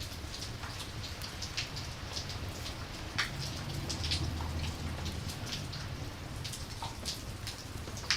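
Steady rainfall on a surface, with scattered sharp drops ticking irregularly over a low, steady rumble.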